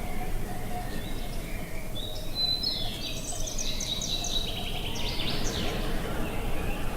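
Steady wind noise outdoors, with a small bird singing a quick, chattering song of high notes and short trills from about two seconds in until about six seconds in.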